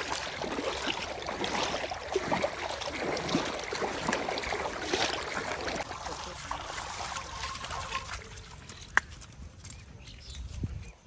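Wet mud and water splashing and sloshing over a low engine rumble, dying down after about eight seconds, with a single sharp click near the end.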